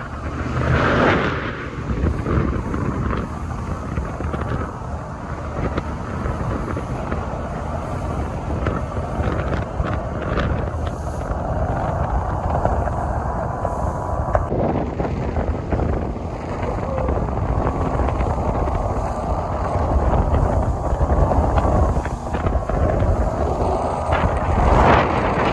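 Small boat's petrol outboard motor running steadily under way, with wind buffeting the microphone and gusting louder about a second in and near the end.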